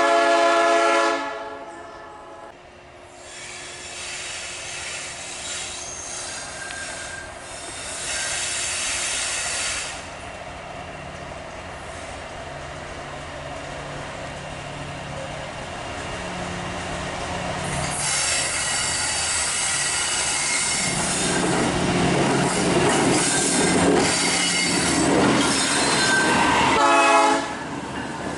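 Freight train locomotive horn sounding one long blast at the start, then steel wheels squealing against the rails on a curve as the train runs past, growing louder. A second, shorter horn blast comes near the end.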